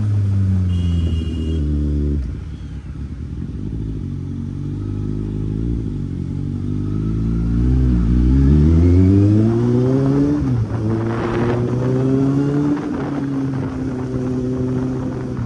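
Kawasaki Z800 inline-four engine under way. The engine pitch drops sharply about two seconds in, climbs and dips under throttle, drops again a little past the middle as gears change, then runs steady.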